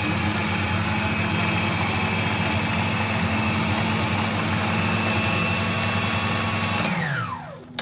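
Antique electric blender running steadily while it purées a chicken liver pâté mixture, then switched off about seven seconds in, its motor whine falling in pitch as it spins down.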